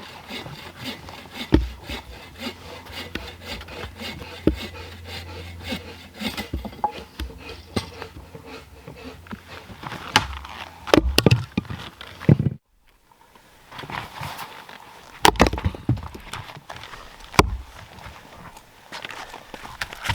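Firewood being cut by hand: quick repeated strokes of a saw rasping through wood. After a short break, a few separate sharp strikes on wood follow.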